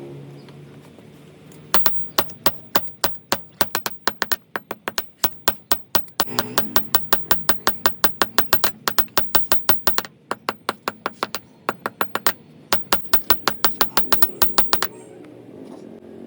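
A hammer striking the metal workpiece over and over, about four sharp blows a second, with a couple of brief pauses partway through.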